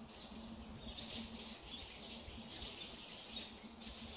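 Small birds chirping in quick clusters about a second in, again near the middle and near the end, over a faint steady low hum and a low rumble.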